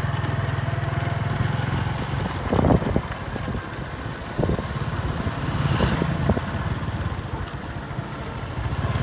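Small motorcycle engine running as the bike is ridden, its low, even putter becoming more uneven after a couple of seconds, with a few short knocks and bumps.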